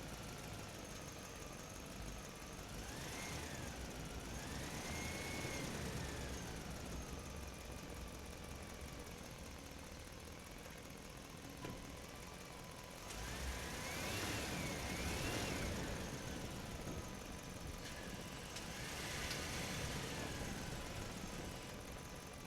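Small motors of toy tractors running, with a steady whine that swells several times as the pitch rises and falls while the toys drive and stop.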